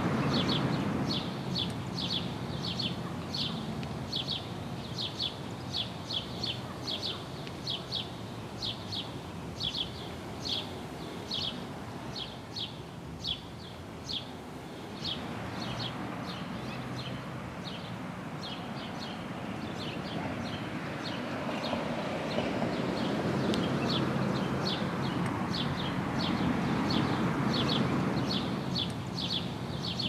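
A small bird chirping over and over, short high chirps about twice a second, over a low background rumble that grows louder in the last several seconds.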